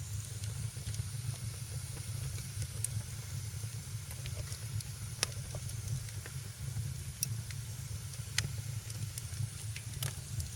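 Wood fire in a fireplace crackling: a steady low rumble and hiss with irregular sharp pops and snaps, a few louder ones about halfway through and near the end.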